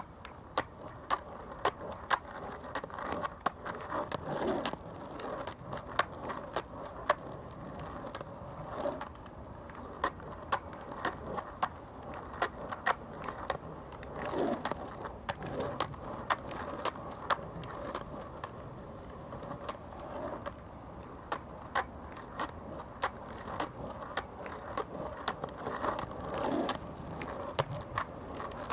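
Skateboard rolling on pavement: a steady wheel rumble broken by frequent, irregular sharp clicks.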